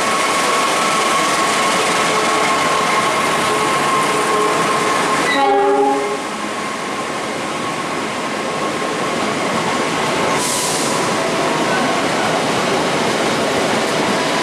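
Diesel locomotive hauling a passenger train through a station, sounding a short horn blast about five seconds in, then the steady rush and rattle of the coaches' wheels on the rails as they pass.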